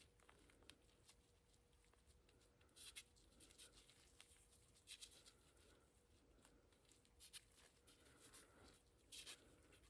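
Near silence, broken by about five faint, brief scrapes and rubs of grease being worked onto a bicycle axle's bearing race.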